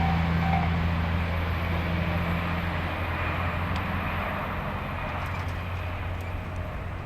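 A train passing over a level crossing, with a steady rumble and a low hum that slowly fade as it moves away. The crossing bell's repeating ring stops about half a second in.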